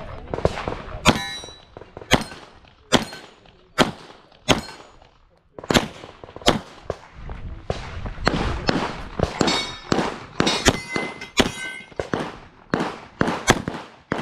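Handgun fired in a fast string of shots at uneven spacing, some followed by the clang and ring of steel targets being hit, with a brief pause about five seconds in.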